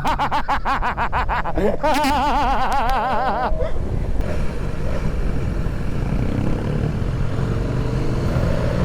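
Motorcycle engine heard from the rider's camera while riding: a high, wavering engine note with rapid pulses for the first few seconds, then easing off to a steadier, lower running note with wind noise.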